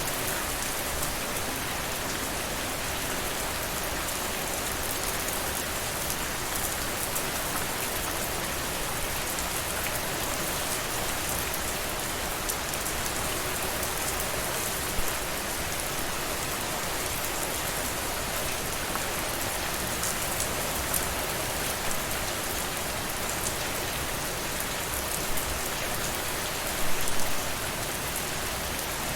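Steady rainfall, a dense even hiss of drops, with a few louder close drops hitting a surface now and then and a short cluster of them near the end.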